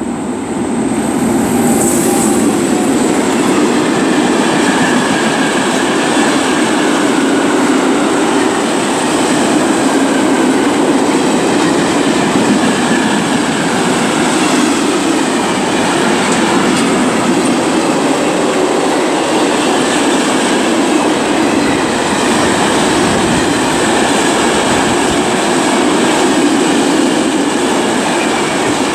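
Freight train of empty flat wagons, hauled by an electric locomotive, rolling past close by: wheels on rail making a loud, steady rolling rumble that swells up within the first second or so and then holds.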